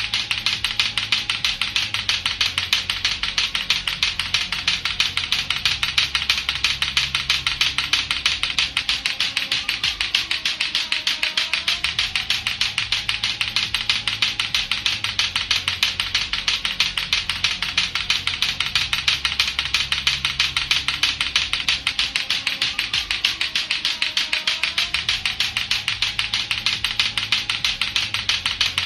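Latto-latto clacker toy, its two hard plastic balls knocking together in a rapid, steady run of sharp clacks, several a second without a break.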